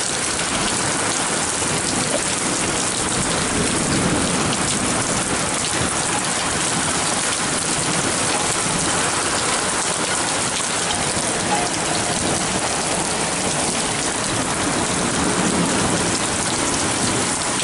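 Heavy rain pouring steadily, pattering on garden plants, lawn and paving.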